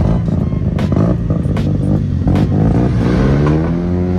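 Modified Mazda RX-7 engine rumbling as it drives past, with sharp exhaust pops about every second. About three seconds in, another engine revs up, its note rising in pitch.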